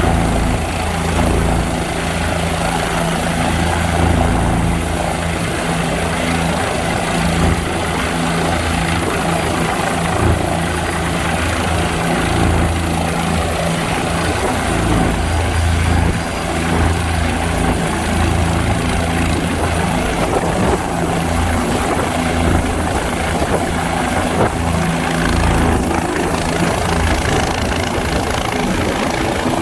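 Minnesota State Patrol helicopter's turbine engine and main rotor running steadily, with a thin high turbine whine over the low rotor beat; the whine edges up in pitch about two-thirds of the way in.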